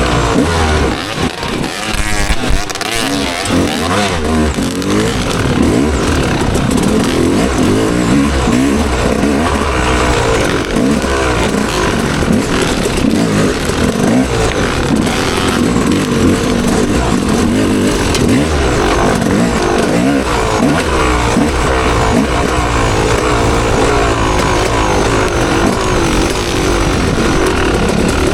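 Motocross dirt bike engine under race load, revving up and easing off again and again.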